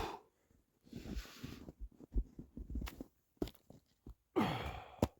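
Rustling and low thumps of heavy winter gloves being pulled on close to the microphone, with a breathy exhale that falls in pitch near the end.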